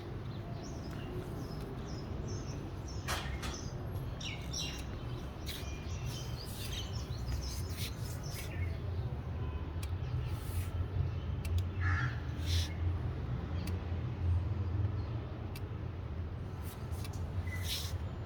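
Keeway K-Light 202cc chopper with an aftermarket exhaust idling with a steady low rumble, while crows caw and other birds chirp now and then over it.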